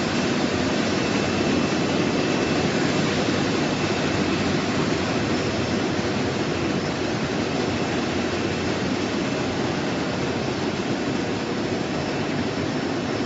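Bubble washing machine for fruit and vegetables running: a steady rush of churning, aerated water with a faint steady high whine from the machine.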